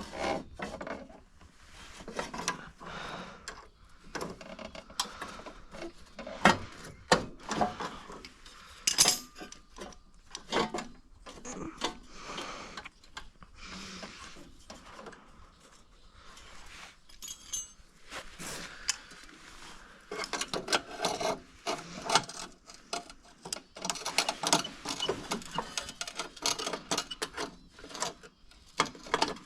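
Irregular metallic clinks, taps and scraping of hand tools working on a stuck part of a snowblower.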